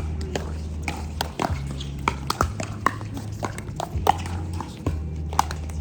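Pickleball paddles striking a hard plastic ball during a rally: an irregular run of sharp pops and clicks, some louder and closer, others fainter from nearby play.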